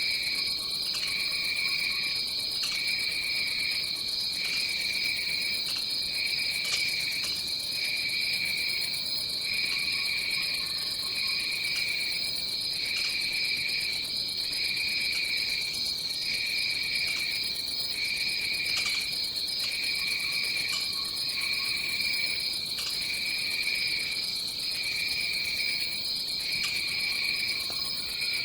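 Rainforest insect chorus: a steady, shrill high drone, with a lower trill that pulses on and off every second or two. Faint short lower calls come in now and then.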